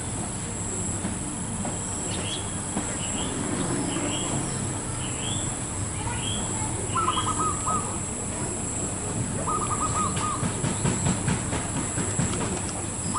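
Zebra dove calling: two short phrases of rapid stuttering coo notes, about seven and nine and a half seconds in. Earlier, a run of short high chirps from another bird, over a steady low rumble and a constant high-pitched hum.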